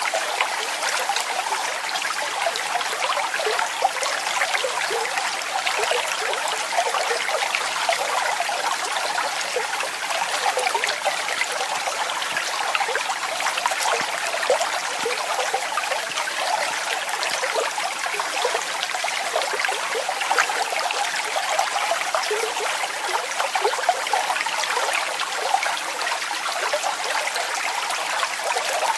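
Waterfall: falling water splashing and trickling steadily, with no deep rumble underneath.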